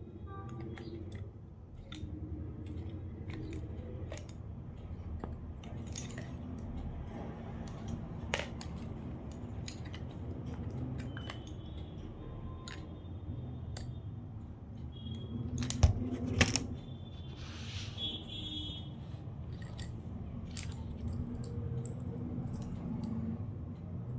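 Small hard drawing colours and their box being handled and rummaged through: scattered light clicks, taps and rattles, with two louder knocks about two-thirds of the way in, over a steady low hum.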